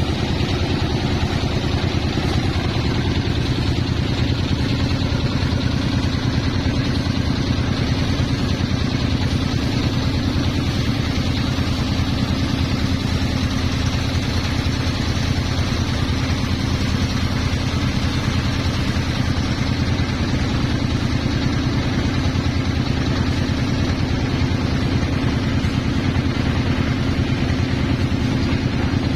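An engine running steadily at a constant speed, with a fast, even firing pulse and no change in pitch.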